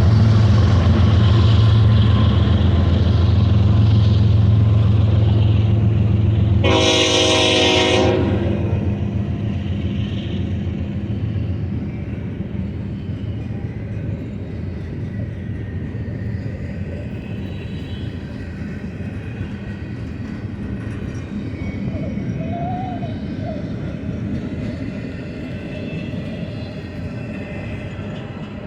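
BNSF diesel freight locomotives passing with a heavy engine drone, the train horn sounding one short blast about seven seconds in. The engine sound then fades and the train's cars roll past with steady wheel and rail noise.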